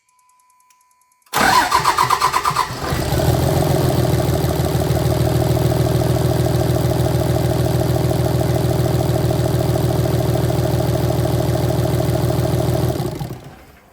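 2006 Dodge Ram 3500's 5.9 common-rail Cummins diesel cranked by the starter about a second in, catching after about a second of cranking and idling steadily, then shut off near the end. It starts and runs with injector 1 reconnected and cylinder 2's line capped, showing injector 2 to be the cause of the crank-no-start.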